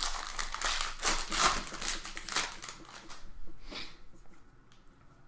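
Crinkling and rustling of trading-card pack wrappers and cards being handled and slid, dense for about three and a half seconds, then faint handling sounds.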